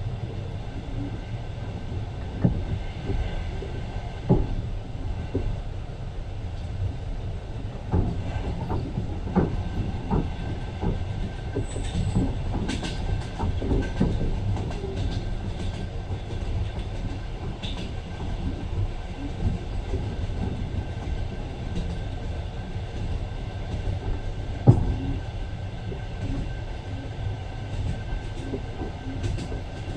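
Passenger train running, heard from inside the carriage: a steady low rumble with irregular clacks and knocks from the wheels over the rail joints. A thin steady whine joins about twelve seconds in.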